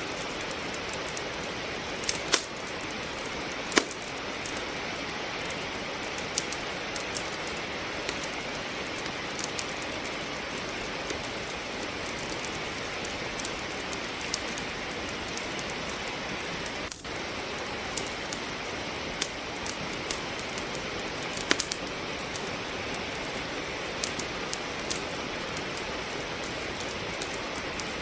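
Steady hiss of falling rain with a wood fire crackling over it: scattered sharp pops and snaps, the loudest two a couple of seconds in.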